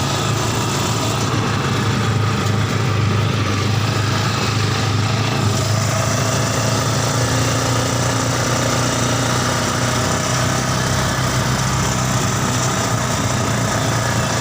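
Mini buggy's Yamaha Scorpio Z 225 cc single-cylinder four-stroke motorcycle engine running steadily.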